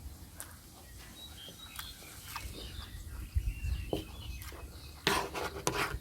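Eating sounds: a spoon clicking against dishes, with a louder rustling burst about five seconds in. A few short high chirps sound in the background.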